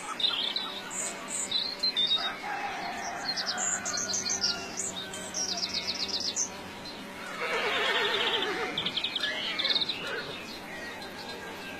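Small birds chirping and trilling in short repeated bursts, with a louder, rapidly pulsing animal call about seven to nine seconds in.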